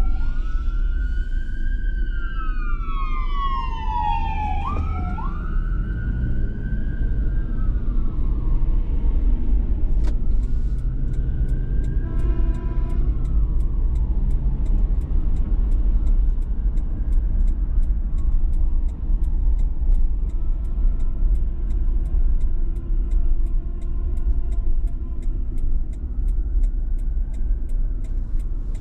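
An emergency vehicle's siren wailing, rising and falling in pitch. It is loud for the first ten seconds or so, then fainter wails carry on under the steady low rumble of road noise inside a moving SUV. A faint regular ticking joins from about ten seconds in.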